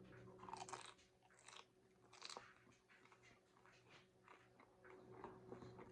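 Faint chewing of a crunchy taco shell, with a few crisp crunches in the first two seconds or so, then quieter, scattered chewing sounds.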